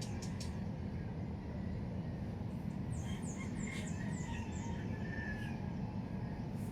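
Birds calling over a steady low background rumble: a quick run of short, falling high chirps about three seconds in, with fainter calls from chickens in the distance.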